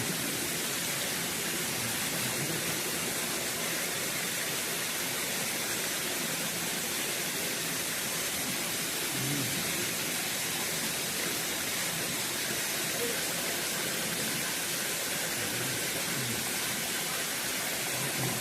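Steady rush of flowing water from a stream running over rocks, an even hiss without breaks.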